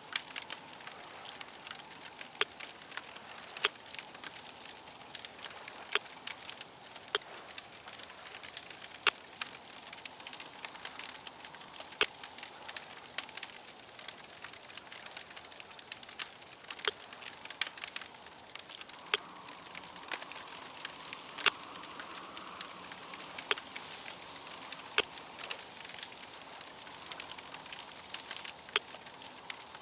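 Fire crackling steadily, with irregular sharp pops and snaps over a soft hiss.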